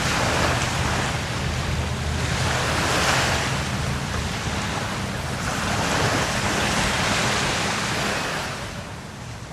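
Sea waves breaking and washing up on a beach, swelling about every three seconds, with wind rumbling on the microphone. The sound fades down near the end.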